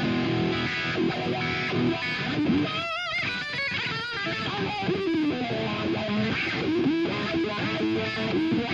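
A live band playing a funky groove led by electric guitar, with bass underneath. About three seconds in, a high note with a wide, wavering vibrato stands out briefly.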